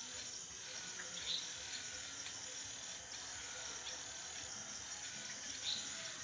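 Steady high-pitched chorus of night insects, crickets, with a few faint ticks and one sharp click about two seconds in.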